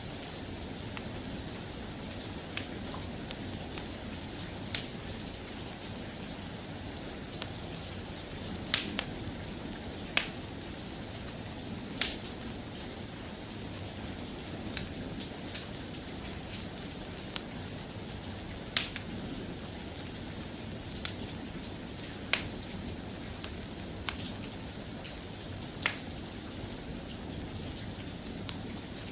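Steady soft rain, with a dozen or so sharp pops scattered irregularly through it, each a second or more apart; these pops are the loudest sounds.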